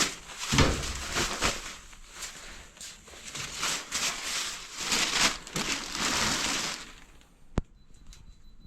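Rustling and crinkling of stored items, such as bagged pillows and clothing, being pulled out and handled, in irregular bursts. A single sharp click sounds near the end, after which the handling goes quieter.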